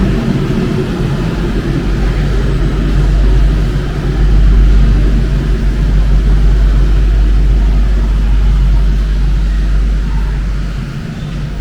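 Rubber-tyred MP 05 metro train running, a loud steady low rumble with a hum on top, easing slightly near the end.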